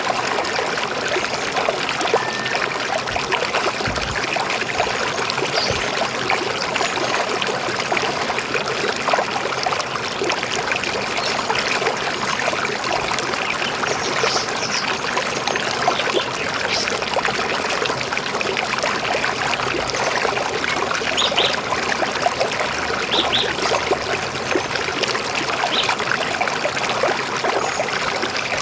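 River water flowing steadily over stones, an even rushing and gurgling. A few short, high bird chirps come through in the second half.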